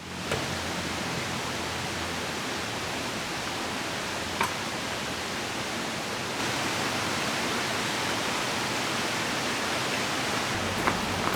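Steady rush of a flowing river mixed with rain, fading in at the start and growing a little louder about six and a half seconds in, with a few faint taps.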